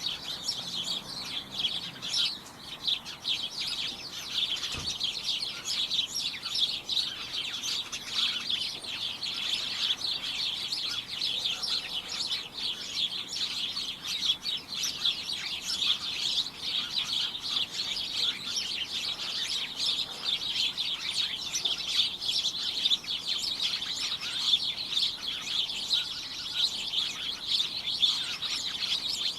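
A flock of small birds chirping continuously, many short overlapping chirps making a dense, high-pitched cacophony.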